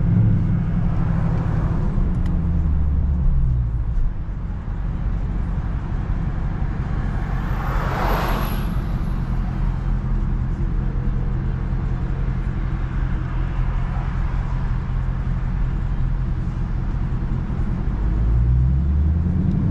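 Dodge Scat Pack's V8 engine running on the move. Its note climbs in the first few seconds, drops, holds steady for a long stretch and climbs again near the end. A brief rushing sound passes about eight seconds in.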